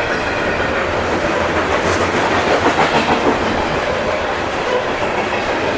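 Loaded coal hopper cars of a long freight train rolling past, steel wheels running on the rails with a steady noise and some faint clicks over the rail joints.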